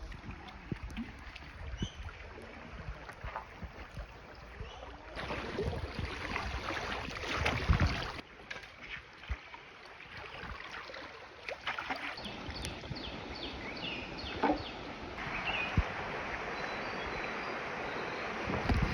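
River water rushing and splashing around a bamboo raft, with scattered knocks and clicks. The water gets louder for a few seconds near the middle and again toward the end.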